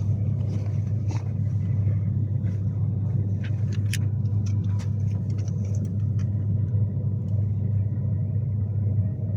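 Steady low rumble of a Class 390 Pendolino running along the line, heard from inside the carriage, with scattered faint clicks and rattles.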